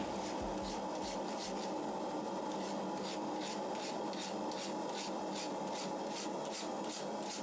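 Hand scraping strokes of an abrasive tool over steel, such as a file or brush worked back and forth, about two to three strokes a second, over a steady background hum.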